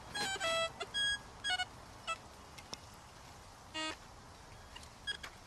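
Metal detector beeping at a buried metal target: a string of short electronic tones at changing pitches, with a lower, longer tone about four seconds in.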